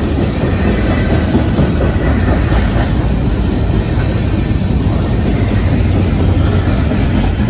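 Freight train cars (tank cars and covered hoppers) rolling steadily over a road grade crossing: a continuous, loud rumble of steel wheels on rail.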